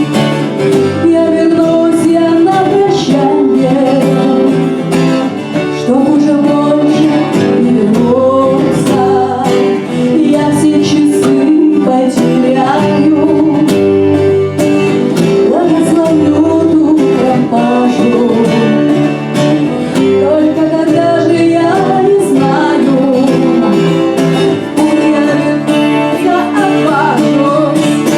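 A Russian bard song performed live: voices singing over strummed acoustic guitar.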